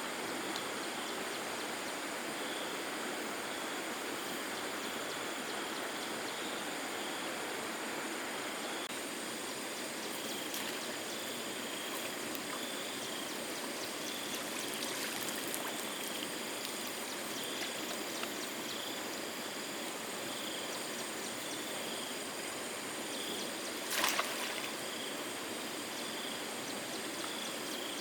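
Steady rush of flowing water, with a high, evenly pulsing chirp above it throughout. A single sharp click comes near the end.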